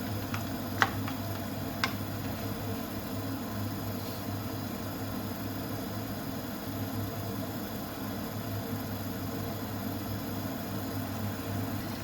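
Pan of lamb cooking on a high flame while its water boils off: a steady hiss with a low hum, and a few sharp pops in the first two seconds.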